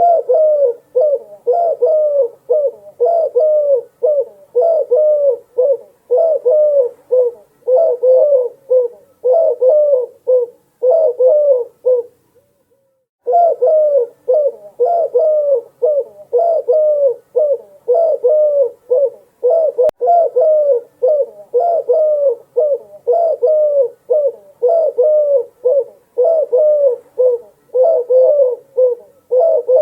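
Dove cooing over and over, short low coo notes about two a second, with a pause of about a second near the middle.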